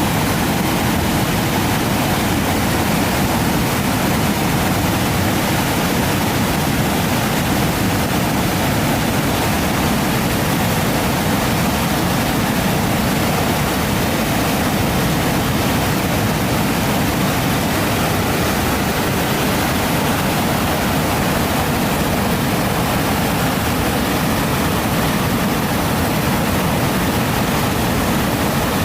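Floodwater pouring over a weir: a steady, loud rush of water, with the weir overflowing in flood after days of heavy rain.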